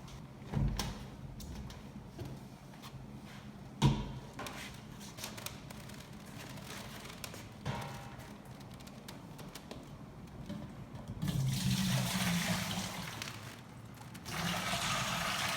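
Water pouring and splashing into the top chamber of a Berkey gravity water filter, in two pours near the end. A couple of knocks come earlier, as the filter and the water container are handled.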